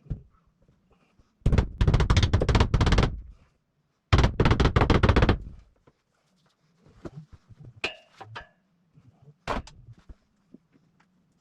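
Two loud bursts of rapid, rattling impacts, each about a second and a half long with a short gap between, followed by a few scattered knocks.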